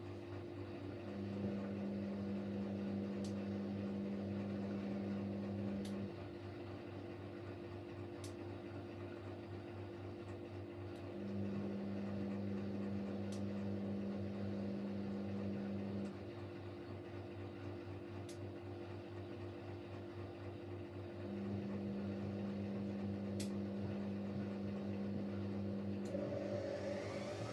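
Siemens Siwamat Plus 574 washing machine between intermediate spins: a steady mechanical hum, with the drum motor running in bursts of about five seconds separated by pauses of about five seconds, and a few faint clicks. Near the end the motor whine starts rising as the machine speeds up into its second intermediate spin.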